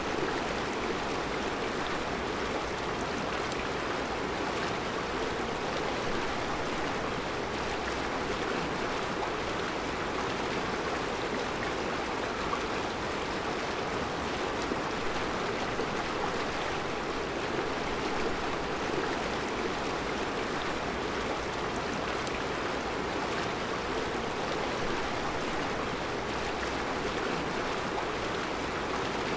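Mountain river flowing over round rocks in its bed: a steady rushing of water with no change.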